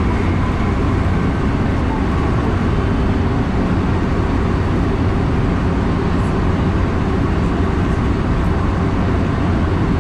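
Steady running noise inside the front car of a JR West electric commuter train: an even, low rumble of wheels on rails, with no distinct clanks or announcements.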